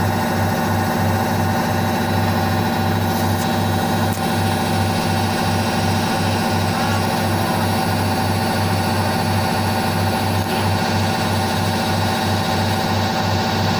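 Indesit IWSC5085 front-loading washing machine running: a steady motor whine over a low hum that pulses about three times a second.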